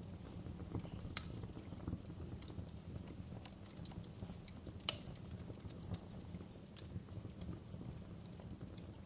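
Fire crackling in a fireplace: an irregular run of small snaps over a low, steady rumble, with two sharper pops, one about a second in and one about halfway through.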